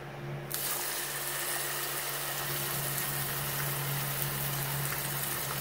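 Raw chicken breast sizzling in a hot frying pan: the sizzle starts suddenly about half a second in, as the meat goes into the pan, and then holds steady.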